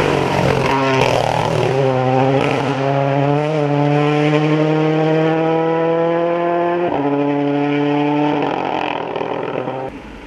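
Rally car engine pulling hard through the gears, its pitch climbing steadily in each gear, with quick gear changes about a second in, at two seconds and at about seven seconds. The sound falls away sharply near the end.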